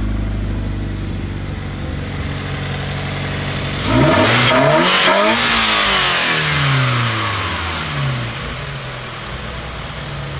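2013 Scion FR-S's flat-four engine idling, then revved once sharply about four seconds in, the revs falling back to idle over the next few seconds.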